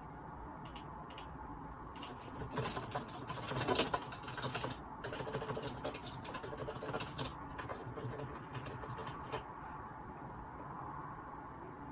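Computer keyboard typing, picked up on a phone microphone: a quick run of keystrokes from about two to five seconds in, then more scattered key presses that thin out near the end.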